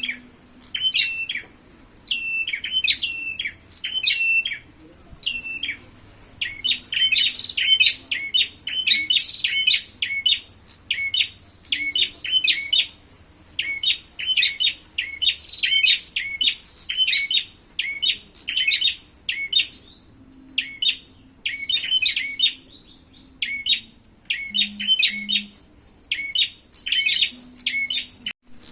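Prenjak songbird giving its 'fighting' call: rapid, sharp chirp phrases repeated about twice a second without a break.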